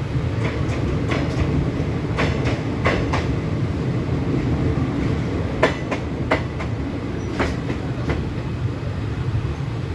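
A steady low rumble with irregular sharp clicks and knocks, like a vehicle in motion.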